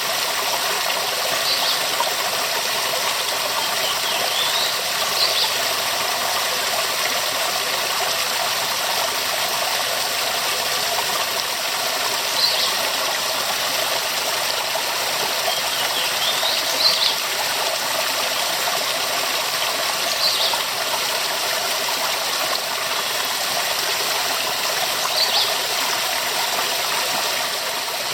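Waterfall rushing steadily, an even hiss of falling water, with short high chirps every few seconds.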